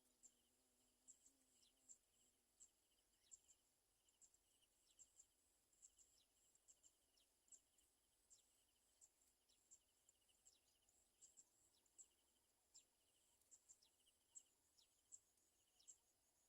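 Faint, high, thin bird chirps, each a quick downward sweep, coming irregularly about once or twice a second over a faint, steady insect trill.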